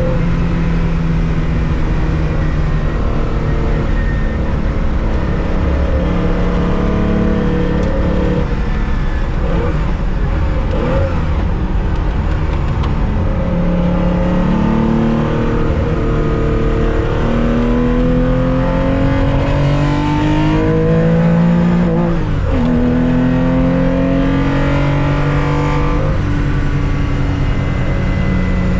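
Air-cooled 2.0-litre flat-six engine of a 1965 Porsche 911 heard from inside the car under racing. Revs hold fairly steady with small changes for the first half, then climb steadily under acceleration, drop sharply at a gear change about two-thirds of the way in, and climb again.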